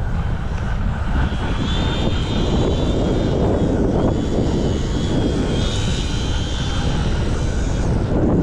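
Small electric motor and propeller of an ultra micro RC glider whining high, wavering in pitch, in two stretches. Heavy wind buffets the microphone and makes a loud low rumble throughout.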